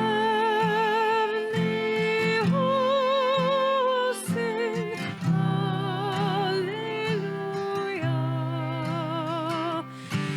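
Worship song: a singer holding long notes with vibrato over strummed acoustic guitar.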